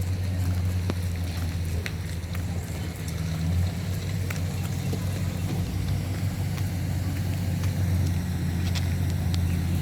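Steady low rumble of a car engine running, with a few faint clicks over it.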